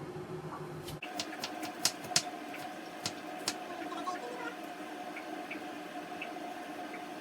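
Pot of chicken soup simmering on the stove: scattered ticks and pops of bubbles over a steady hum. The sound changes abruptly about a second in, and the pops are thickest in the first few seconds after that.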